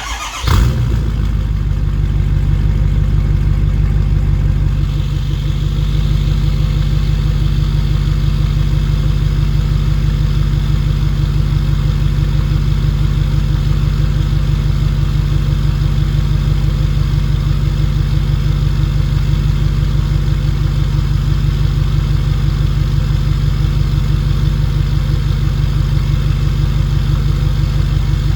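2011 6.7 Powerstroke V8 turbodiesel firing up through a 5-inch exhaust, with a brief flare about half a second in, then settling into a steady idle. This is its first start after six months in storage.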